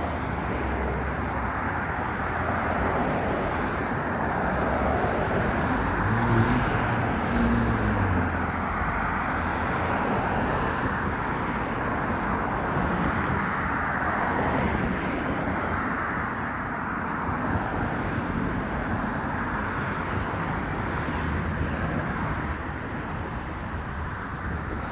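Steady road traffic: cars passing one after another with tyre hiss swelling and fading, and a low engine hum from a vehicle going by a few seconds in.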